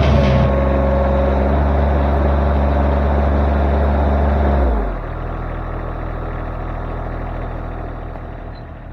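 Derette V1000 mini skid loader's engine running at high throttle, then throttled down to a lower idle about halfway through.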